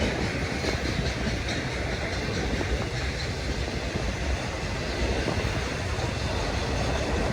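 Freight train rolling past, its cars making a steady noise of wheels on rails that does not let up.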